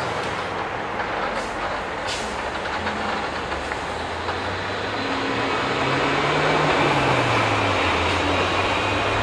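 A regional multiple-unit train running across a steel truss railway bridge: a steady rumble that swells to its loudest about two-thirds of the way in, with a low motor hum rising and then falling in pitch. A brief high squeal comes about two seconds in.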